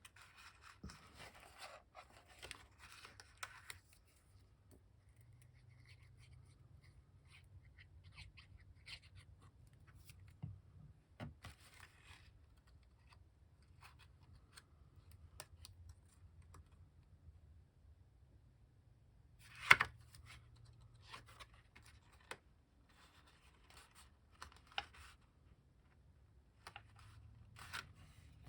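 Paper and card being handled on a craft table: soft rustling and scraping in the first few seconds, then scattered light taps and clicks, with one sharper tap about two-thirds of the way through.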